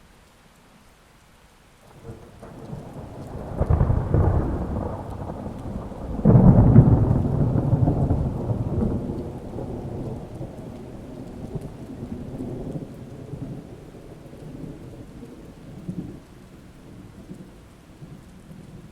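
Thunder over steady rain: the thunder builds about two seconds in, cracks loudly twice, near four and six seconds in, then rolls and fades into a long low rumble while the rain keeps falling.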